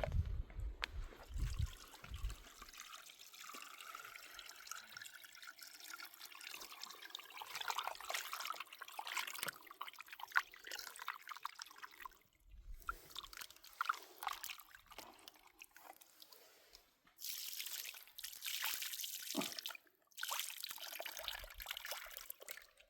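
Water trickling and dripping, with small clicks and knocks of handling. Near the end come two louder stretches of running water, each a couple of seconds long.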